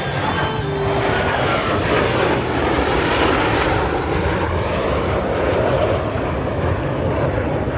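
Airplane flying past, its engine noise swelling to a loud, steady rush about a second in.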